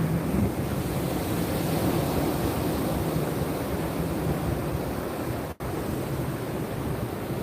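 Ocean surf: a steady rushing wash of waves, heaviest in the low end, with the sound cutting out for an instant about five and a half seconds in.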